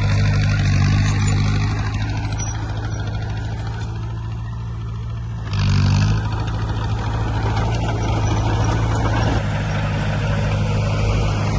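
Heavy earthmoving machinery's diesel engine running steadily under load, with a short, loud hiss about halfway through.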